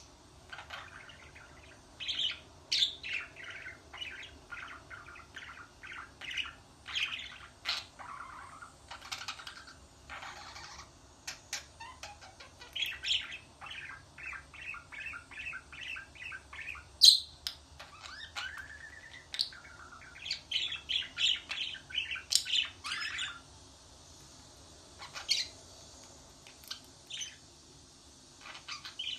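Small bird chirping in quick runs of short high notes and squawks, with a rising whistled note about two thirds of the way in and a few seconds of sparser calls near the end.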